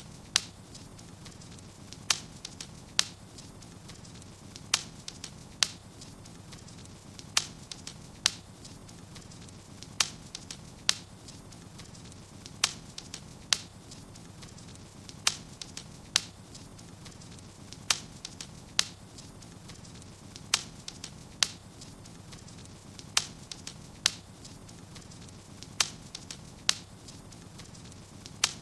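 Wood fire crackling in a fireplace: sharp pops come in pairs about a second apart, repeating very evenly every two and a half seconds over a steady low rumble.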